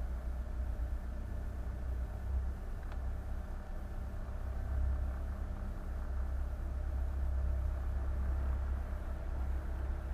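Boat engine running steadily under way, a deep even rumble.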